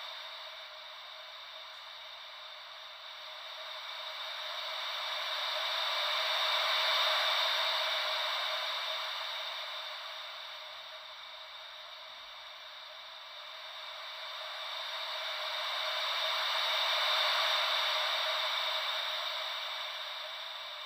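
Gentle ocean-wave white noise: a soft, steady hiss that slowly swells and fades like waves washing in, peaking twice, about ten seconds apart.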